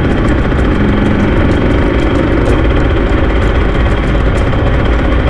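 An engine running steadily at low speed, a loud, even rumble with a light, fast ticking on top.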